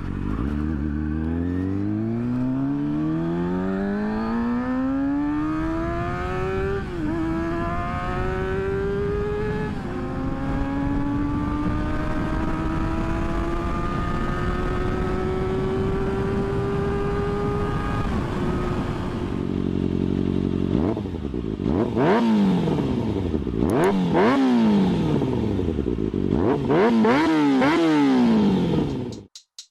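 2012 Kawasaki ZX-6R's inline-four engine pulling hard, its pitch climbing and dropping at gear changes about seven and ten seconds in, then holding steady at speed. From about twenty seconds in, the revs rise and fall quickly several times.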